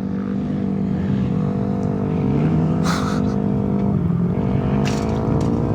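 Yamaha YZ250F four-stroke single-cylinder dirt bike engine running under throttle, its pitch climbing and falling as it revs. Two brief hissing bursts come through about three and five seconds in.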